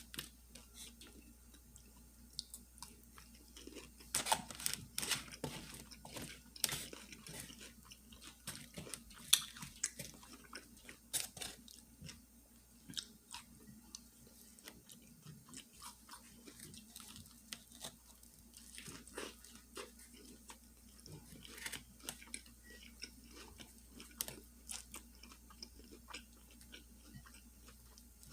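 Close-miked chewing of a fried fish sandwich with lettuce and onion: irregular wet bites and crunches, busiest in the first half.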